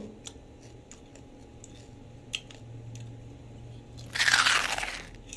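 Close-up chewing of crispy lechon kawali (deep-fried pork belly): small clicks of chewing, then a loud crunch about four seconds in that lasts about a second as the crisp skin is bitten.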